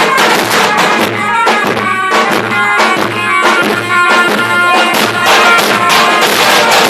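Loud traditional folk music: a melody of held notes played over a steady drum beat.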